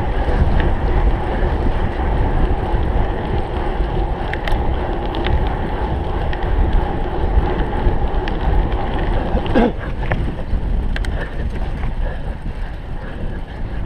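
Cyclocross bike being ridden hard over the course, with wind rushing over the microphone, the drone of the tyres on the ground and scattered clicks and rattles. A short falling squeal comes about two-thirds of the way through.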